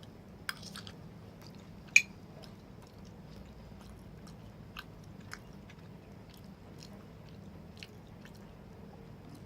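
A person chewing a mouthful of creamy macaroni casserole close to the microphone, with a few scattered soft clicks and one sharp click about two seconds in.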